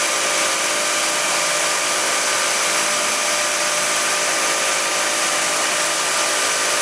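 Motor-driven machine tool running steadily while a threading tool cuts threads in an aluminum bronze spark plug insert, a hard material that needs two passes. The steady motor hum and hiss hold a few fixed tones and do not change.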